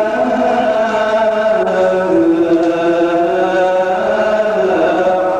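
A Coptic priest's solo voice chanting a long melisma of the liturgy, holding one drawn-out vowel that steps slowly between pitches.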